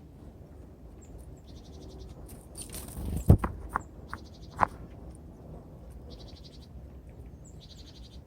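Small songbirds calling at a winter feeder: brief high chirps and several short, rapid buzzy churring trills. A cluster of about five loud, sharp knocks comes about three to five seconds in.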